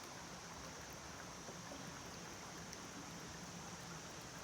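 A creek flowing faintly, a steady soft rush of water.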